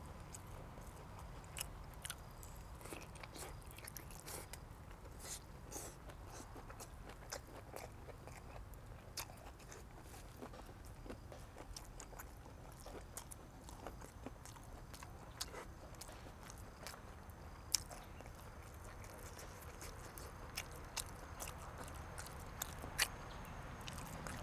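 A person chewing boiled pig head meat, with irregular sharp crunches and wet mouth clicks scattered throughout.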